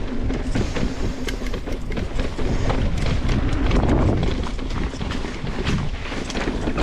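Mountain bike riding down a dirt trail: tyres running over dirt and rock, with quick, irregular clicks and rattles from the bike, over a steady rumble of wind on the microphone.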